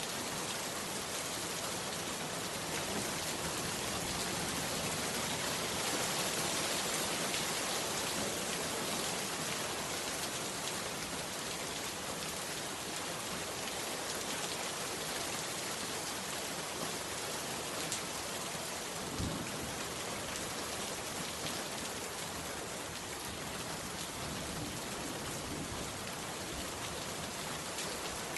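Heavy rain falling steadily, with a couple of sharper single drop hits about two-thirds of the way through.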